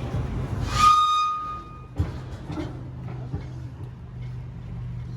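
Pickup truck engine idling steadily. About a second in there is a brief rush of noise, then a single high beep or horn-like tone held for about a second, and a sharp click follows.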